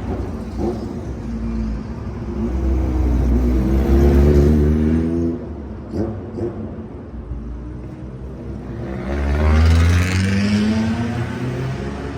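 Car engine revving twice, its pitch climbing with each surge and loudest about four and ten seconds in.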